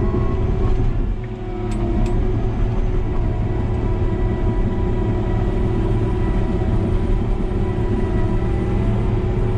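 New Holland D180C crawler dozer's diesel engine running steadily under load as it pushes fill, heard from inside the cab. The level dips briefly about a second in, and two short clicks come about two seconds in.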